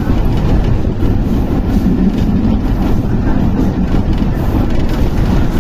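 Train running on its rails, a steady loud rumble.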